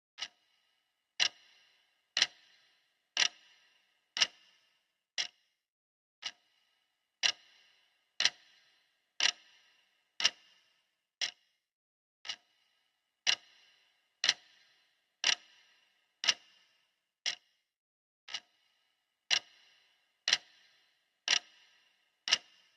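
Clock ticking steadily once a second, each tick a sharp click, many with a short ringing tail.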